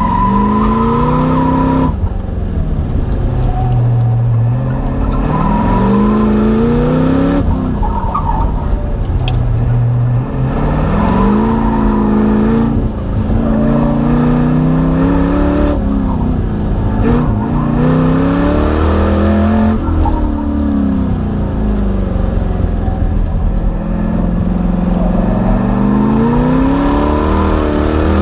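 Car engine on an autocross run, heard on board: the revs climb and drop again and again as the car accelerates between cones and lifts or brakes for the turns. Brief tire squeals come in some of the corners.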